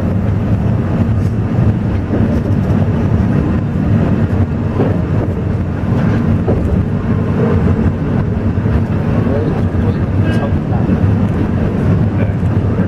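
Alishan Forest Railway train running, a steady low rumble of wheels and running gear.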